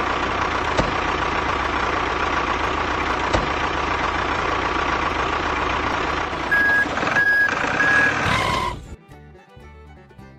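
Truck engine running steadily, with a reversing alarm beeping three times near the end before the engine sound cuts off suddenly.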